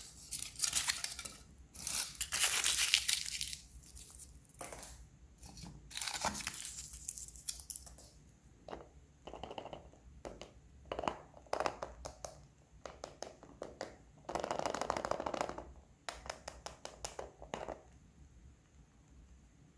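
Kinder Surprise egg unwrapping: foil wrapper crinkling and tearing in several bursts over the first eight seconds, then a run of short clicks and taps, with one more crinkling burst later on.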